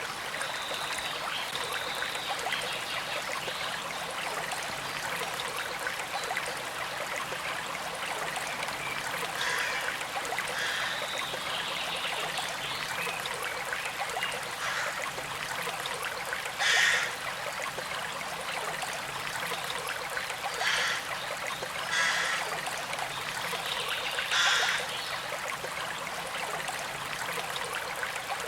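Small stream trickling and flowing steadily, with four short, louder bursts in the second half.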